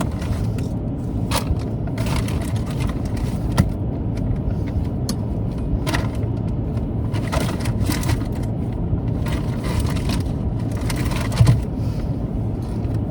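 Rummaging through supplies with scattered crinkling, clicks and knocks, over the steady hum of an idling car engine.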